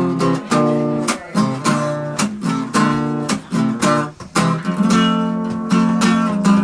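Acoustic guitar strummed in a steady rhythm, chords ringing between the strokes, with a brief break in the strumming about four seconds in.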